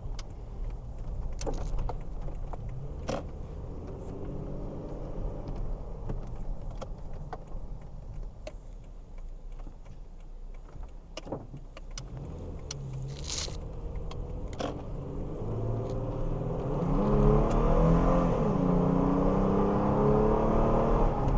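2008 Toyota Tacoma pickup on the move, engine and road noise heard from inside the cab. About 16 seconds in, the engine note climbs and gets louder as the truck accelerates up to highway speed.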